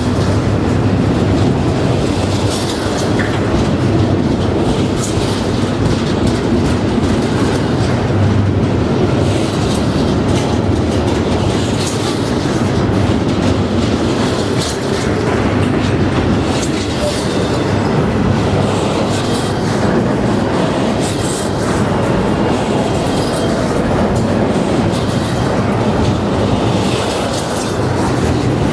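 A train's railcars rolling steadily past, the wheels clicking and clacking over the rail joints with a continuous loud rumble.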